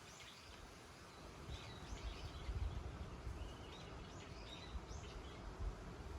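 Autumn wind gusting over the microphone as a low rumble that swells about two seconds in and again near the end, while small birds chirp in short, scattered calls.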